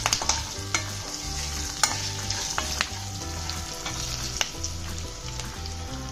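A steel spoon stirring peanuts, dals, green chillies and curry leaves frying in oil in a kadai: a steady sizzle, with a click or scrape of the spoon against the pan about once a second.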